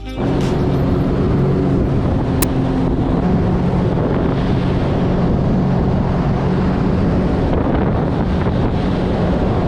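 Jet ski engine running steadily at cruising speed, with wind buffeting the microphone and water rushing past the hull.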